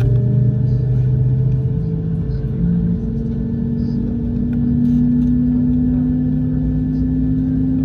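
Airbus A220-100's Pratt & Whitney PW1500G geared turbofan engines heard from inside the cabin, a steady low rumble with a hum that slowly rises in pitch, as an engine spools up during start.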